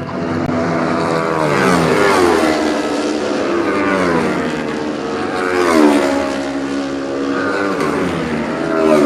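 Supertwin racing motorcycles with twin-cylinder engines passing at high speed one after another, each engine note dropping in pitch as the bike goes by. The loudest pass comes about six seconds in.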